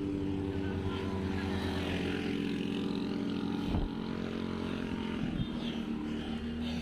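A motor vehicle's engine running steadily close by, a hum that shifts a little in pitch about four seconds in.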